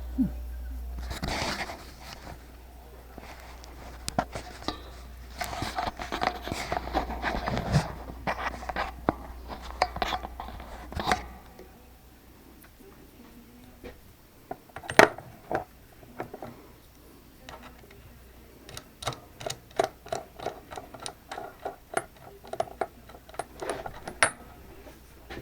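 Small clicks, knocks and clatter of tools and parts being handled on a workbench. A low hum stops about eleven seconds in, a single sharp knock comes a few seconds later, and a run of quick light clicks follows near the end.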